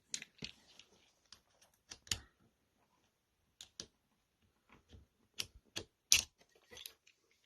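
Irregular sharp metallic clicks and clacks of a Norinco M-77B pistol's steel parts being handled and worked during disassembly, with the loudest click about six seconds in.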